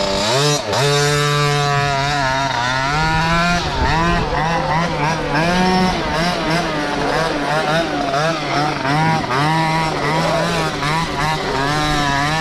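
Small carbureted two-stroke engine, a KTM 50 knockoff, on a half-tracked pocket bike, revving under riding. The revs climb steadily over the first few seconds, then the throttle is worked on and off in quick swells, roughly one or two a second.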